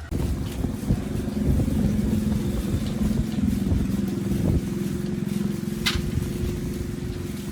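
Motorbike engine running steadily, a little louder for its first few seconds and then settling, with a sharp click about six seconds in.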